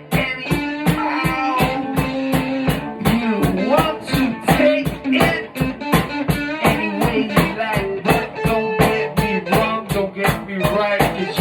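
Live band playing an instrumental passage: a guitar lead over a drum kit beating steadily at about four strokes a second.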